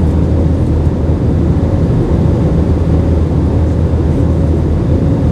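Steady cabin noise of an Airbus A320-232 in flight: the low drone of its IAE V2500 engines and the rush of air over the fuselage, with a faint steady tone above it.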